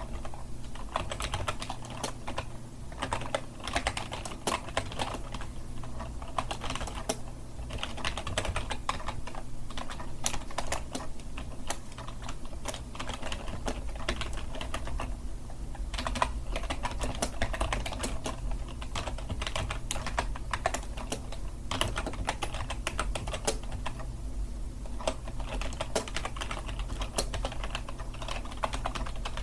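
Continuous typing on a computer keyboard: a fast, irregular run of key clicks with brief pauses, over a faint steady low hum.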